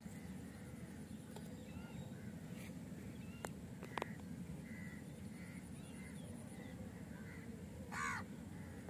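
A short loud bird call about eight seconds in, over a steady low background rumble and faint scattered chirping. Two sharp clicks come a little past the middle.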